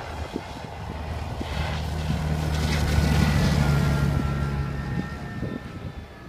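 Diesel engine of a passing farm vehicle: a steady low drone that swells and then fades, with a faint high whine sliding slowly down in pitch in the second half.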